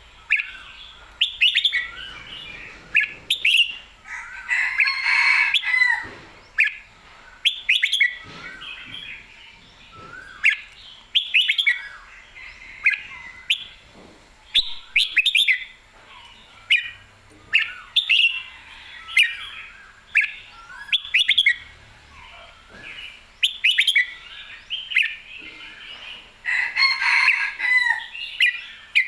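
Red-whiskered bulbul singing: short, bright warbled phrases that rise and fall, repeated every second or two.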